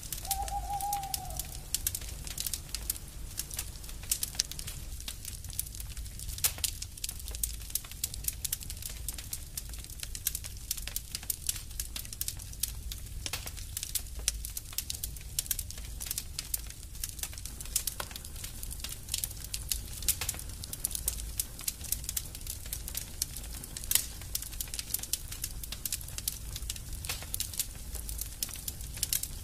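Burning wood fire crackling: a dense, irregular run of sharp pops and snaps over a low, even rumble. A brief whistling note rises and falls at the very start.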